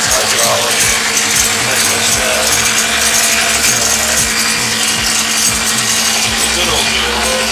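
An old engine running steadily with a loud mechanical clatter.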